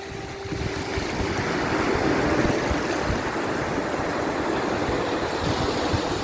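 Sea waves washing on a shore: a steady rush of surf that swells to its loudest about two to three seconds in.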